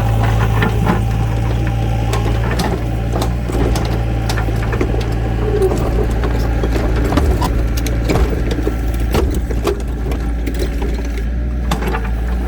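An engine running steadily with a low hum, with many scattered knocks and clatters over it.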